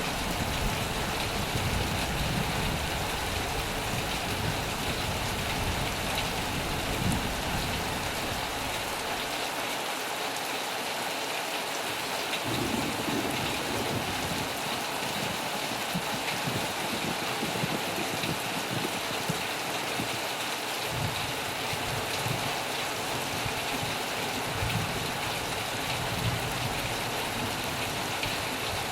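Heavy rain falling on a metal roof, a steady dense hiss, with low thunder rumbling at times underneath.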